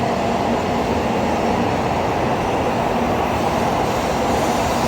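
Shinkansen bullet train moving alongside the platform: a loud, steady rush of train noise with no break.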